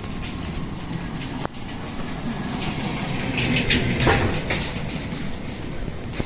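Steady low rumble of a moving vehicle, with a sharp click about a second and a half in and a burst of rattling about four seconds in.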